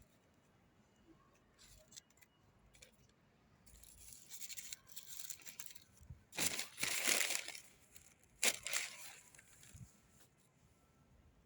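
Paper food packaging crinkling and tearing in a few rustling bursts. The loudest comes a little past halfway, and a shorter one follows about a second later.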